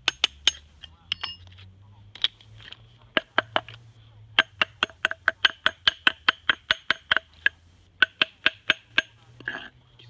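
Hammer striking a rough Japanese natural whetstone (suita) in quick runs of sharp, ringing knocks, about four a second, with a longer unbroken run in the middle. The stone is being tapped and split along its weakly bonded layers, its ring used to find where it will break.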